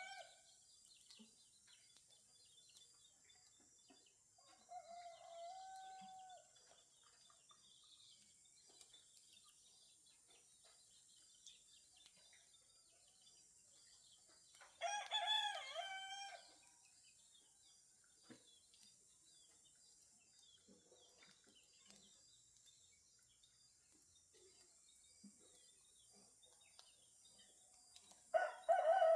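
Rooster crowing at intervals: a fainter crow about five seconds in, a loud crow about fifteen seconds in and another starting near the end, each about a second and a half long. Faint chirps of small birds and a steady high hiss fill the gaps.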